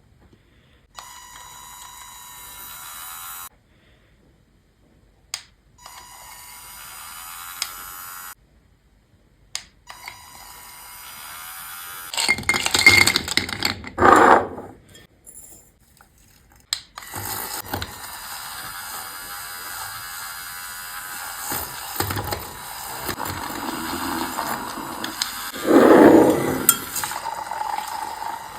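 Drink-making sounds at close range: three short stretches of steady hiss or pouring, then louder clinks and knocks of glass or dishes, and a longer steady stretch with a few knocks and one loud burst near the end.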